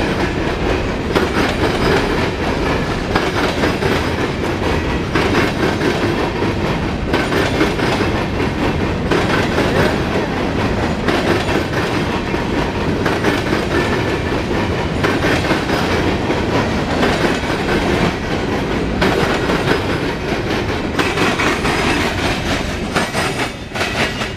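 Freight cars of a CSX mixed freight train rolling past, their steel wheels clacking over the rail joints. The noise drops away near the end.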